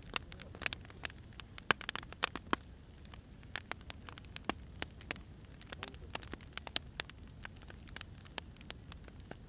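Firewood burning: irregular sharp pops and snaps, some loud and some faint, over a low steady rumble of the fire.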